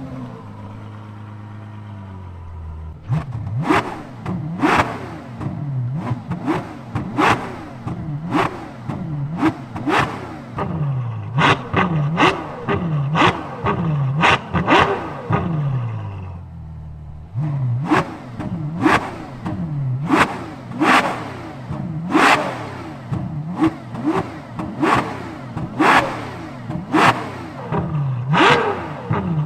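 Ferrari F12 Berlinetta's V12 idling through a free-flow F1-style X-pipe and valved exhaust. After about three seconds it is blipped in a long string of quick, sharp revs, roughly one a second, each rising and falling straight back to idle. About halfway through it settles at idle for a moment, then the revving resumes.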